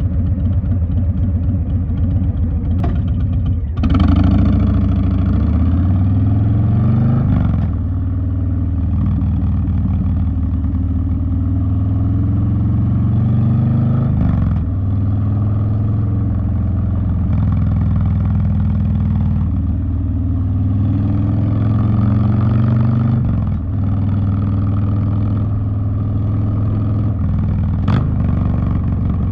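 Harley-Davidson Street Bob V-twin through a TBR two-into-one exhaust, pulling hard as the throttle opens about four seconds in. The pitch climbs through the revs and drops back at each gear change, then the bike cruises on a steadier note.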